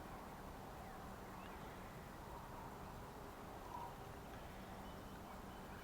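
Steady rush of a small stream's running water, with a few faint bird chirps.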